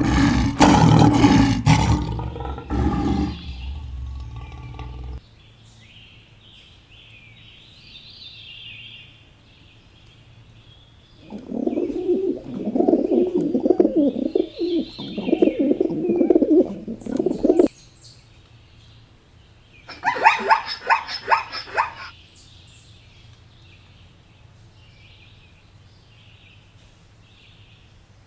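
Farm animal calls with small birds chirping throughout: a loud call over the first few seconds, a lower, choppy call lasting about six seconds from a third of the way in, then a quick run of higher calls about two-thirds of the way in.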